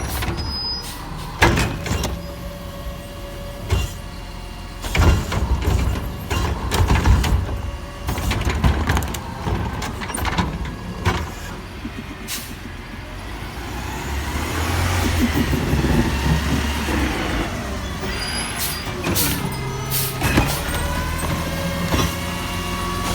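Autocar ACX garbage truck with a Heil Half/Pack body working, its diesel engine running steadily. A string of sharp bangs and clanks comes through the first half, and the sound swells louder about two-thirds of the way in.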